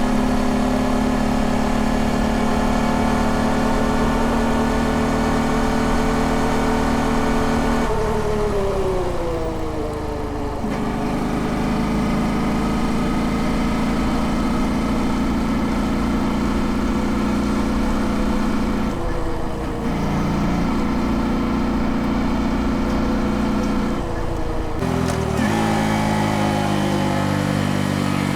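Honda Dax 125's single-cylinder four-stroke engine running steadily under way. Its note drops and climbs back a few times: about a third of the way in, briefly around two-thirds, and again near the end.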